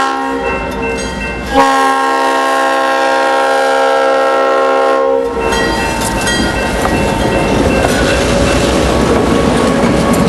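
Diesel locomotive horn sounding a multi-note chord: one blast ends about a second and a half in, and a longer, louder blast follows for about three and a half seconds. Then the train rumbles past with the clatter of its wheels over the rails.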